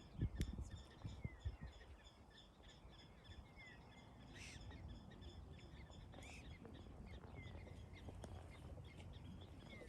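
Faint high chirps and short calls from small animals throughout, with two louder calls about four and a half and six seconds in. A few low thumps of handling noise in the first second or two.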